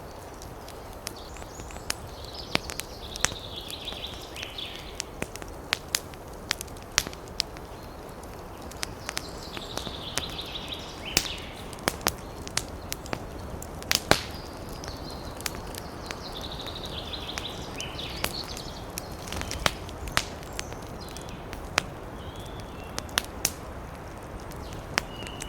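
Wood fire in a fireplace crackling, with sharp pops and snaps at irregular intervals, some much louder than others, over a low steady rumble of burning.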